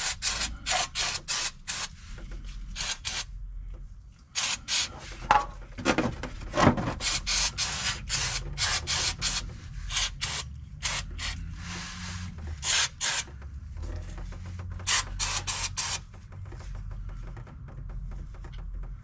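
Aerosol degreaser being sprayed in many short hissing bursts, with one longer spray about twelve seconds in. The spraying stops about three seconds before the end.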